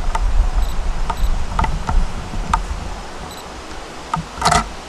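Long Island Rail Road M9 electric train pulling into the station: a low rumble that fades as it slows, with scattered clicks and a brief buzzing sound near the end.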